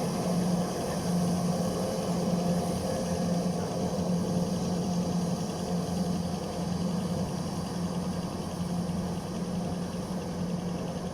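Combine harvester's engine running steadily with an even, continuous drone while it works through the paddy.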